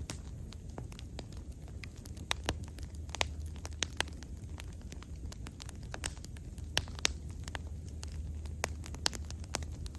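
Bonfire burning with a steady low rumble and irregular sharp crackles and pops of burning wood, several to the second.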